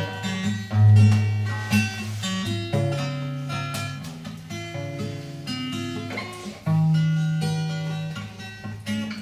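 Acoustic guitar playing an instrumental passage between sung lines of a song, with separate plucked notes over sustained bass notes.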